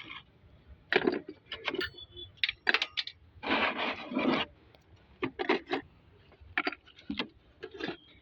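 Metal tools and engine parts clinking, rubbing and scraping in short, irregular bursts, with a brief metallic ring about two seconds in.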